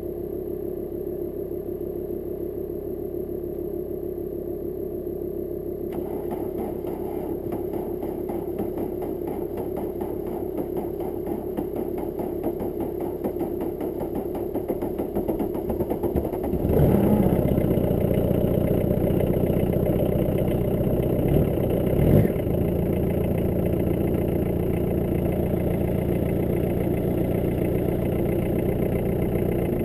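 VW Caddy Mk1's 1.6-litre four-cylinder diesel running on a cold start after months unused. It grows gradually louder and rougher, jumps up suddenly with a short rev a little past halfway, blips once more a few seconds later, then settles into a steadier, louder idle.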